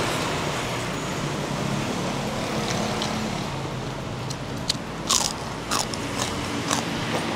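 Close-up chewing of a mouthful of food, with several sharp crunching clicks in the second half, over a steady hum of road traffic.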